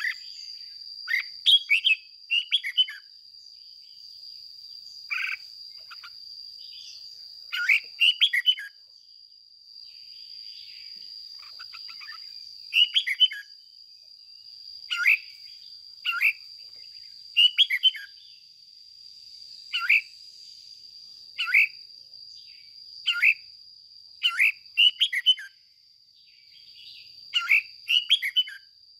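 Red-whiskered bulbul singing short, loud, warbling phrases, about a dozen of them, one every second or two, over a steady high-pitched tone.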